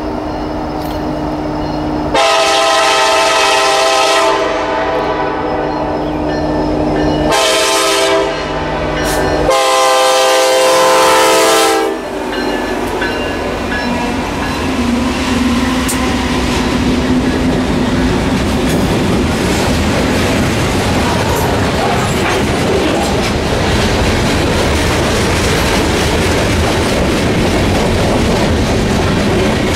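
Norfolk Southern freight train's diesel locomotive sounding its multi-chime air horn in long blasts for a grade crossing as it approaches. The locomotives then pass close by, followed by a long string of freight cars rumbling and clattering past, with wheels clicking over the rail joints.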